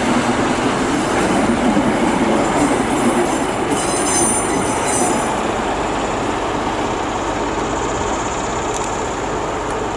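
Train running along the platform, with a high metallic wheel squeal rising briefly about four seconds in.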